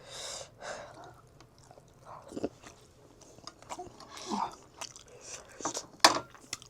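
Close-miked chewing and mouth sounds of a person eating a meal, with scattered soft clicks and a sharper click near the end.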